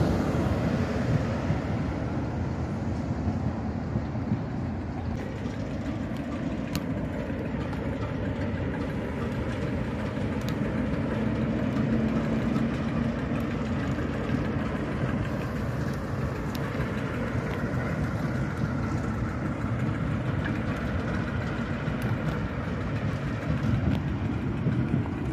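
Railway noise: a South Western Railway electric train moving off along the platform, then the steady low rumble of a Class 08 diesel shunter's engine running in the yard.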